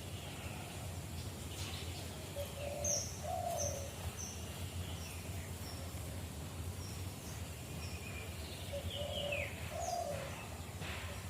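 Dove cooing in two short phrases of low coos, about six seconds apart, with small birds chirping in short high notes around them.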